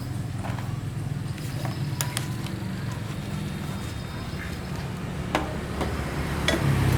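A motor vehicle engine running steadily at a low pitch, with a few scattered clicks and knocks.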